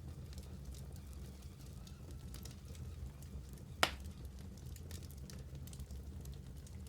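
Wood fire burning in a fireplace: a steady low rumble with scattered small crackles, and one loud sharp pop just past the middle.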